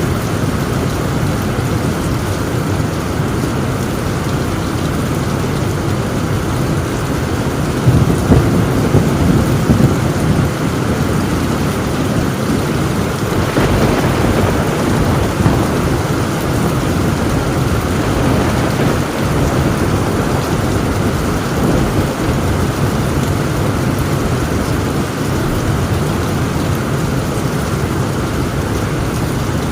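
Torrential rain falling on a tin roof, a steady dense hiss, with thunder rumbling louder about eight seconds in.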